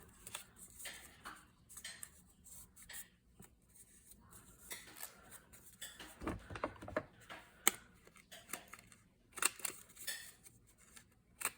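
Paper being folded and handled: soft rustles with scattered light clicks and taps, a dull thump about six seconds in.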